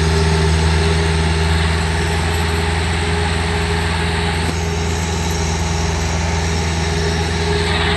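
A heavy engine running steadily at an even speed, with no revving.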